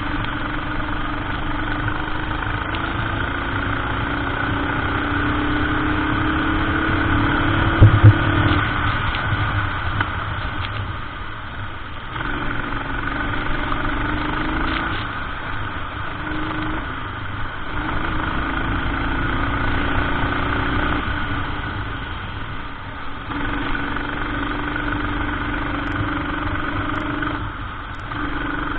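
Racing kart engine heard onboard, its revs repeatedly climbing as it accelerates and dropping as it slows, several times over. A pair of sharp knocks, the loudest sounds, about eight seconds in.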